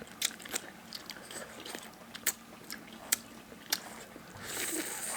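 Eating pork-backbone gamjatang: chewing and biting meat off the bones, with several sharp clicks of utensils and bones and a short soft hiss near the end.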